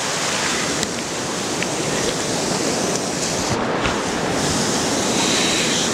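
Flash floodwater rushing steadily through a yard like a river, a constant even roar of moving water.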